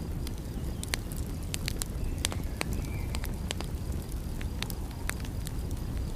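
Fire in a fireplace crackling, with sharp, irregular pops several times a second over a steady low rumble.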